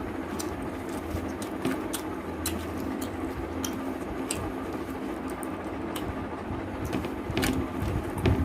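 Chewing and mouth sounds of someone eating a meal: irregular wet clicks and smacks, about one every half second, over a steady low hum.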